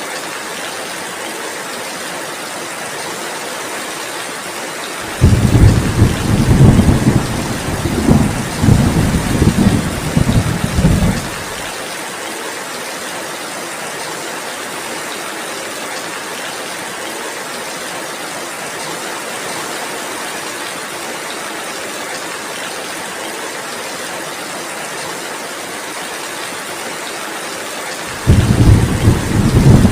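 Steady heavy rain hissing, with a low rolling thunder rumble that starts about five seconds in and lasts about six seconds. Another rumble begins near the end.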